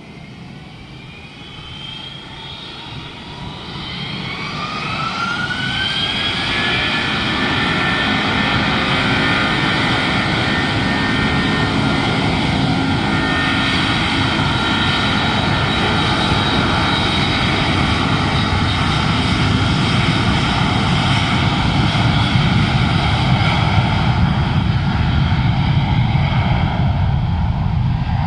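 Airbus A330 twin jet engines spooling up for takeoff: a whine rises in pitch and grows louder over the first six or seven seconds. It then settles into a steady, loud jet roar with a high whine on top at takeoff thrust.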